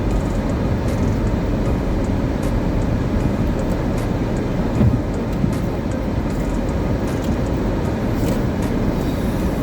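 Car driving: a steady low rumble of engine and road noise, with a few faint ticks and a brief louder bump about five seconds in.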